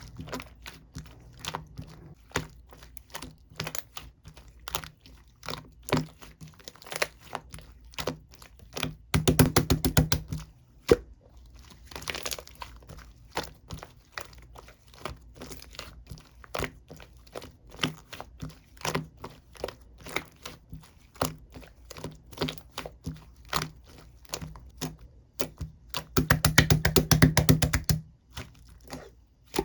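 A series of irregular sharp clicks and taps, with two runs of rapid clattering, once about nine seconds in and again near the end.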